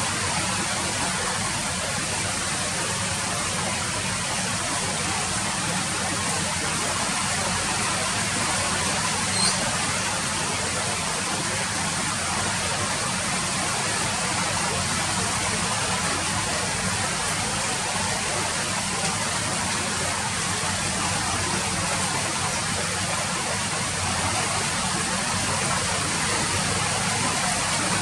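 Steady rain falling, an even hiss with no break, and one sharp drip or tap about nine seconds in.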